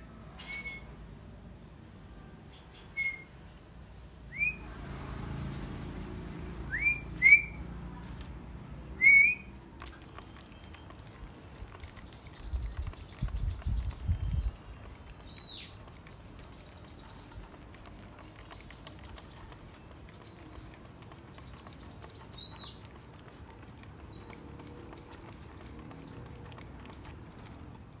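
Oriental magpie-robin giving short, sharp whistled calls, each a quick upward-sweeping note, about ten spread through and loudest in the first ten seconds. A brief cluster of low thumps comes about halfway.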